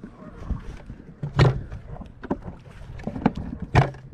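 Irregular knocks and clunks from handling a minnow bucket and its lid, with two louder thuds, one about a second and a half in and one near the end.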